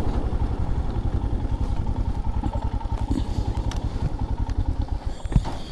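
Motorcycle engine running with a rapid, even pulse, growing quieter near the end, with a couple of short knocks just before it ends.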